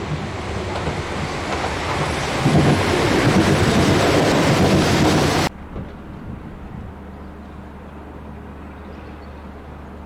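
Class 33 diesel locomotive and train passing close by, the noise building to its loudest around the middle and then cut off suddenly. After the cut, a much quieter steady low hum is heard.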